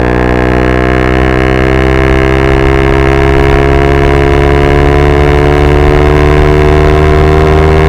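Yamaha R125's single-cylinder four-stroke engine through a straight-pipe Dominator GP exhaust, pulling hard in one gear, its note climbing slowly and steadily as the revs rise.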